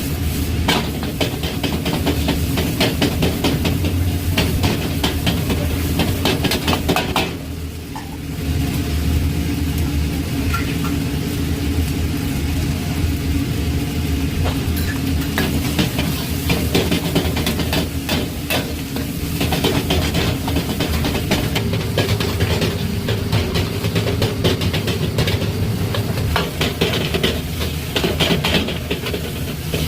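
Fried rice being stir-fried in a pan: a spatula scraping and clacking rapidly against the pan over sizzling, with a steady low hum underneath. The stirring eases off briefly about eight seconds in.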